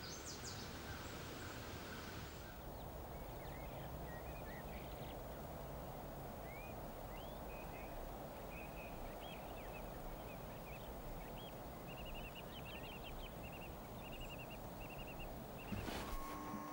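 Quiet outdoor ambience: a steady low background hiss with small birds chirping, starting a couple of seconds in and quickening into short repeated trills near the end.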